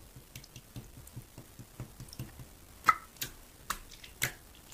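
Slime being squeezed and poked by hand, making small wet clicks and pops, with a few sharper pops around three and four seconds in.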